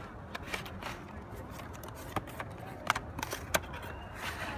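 Cardboard box and packaging of a portable air pump being handled: scattered clicks, taps and light scraping over a steady low rumble.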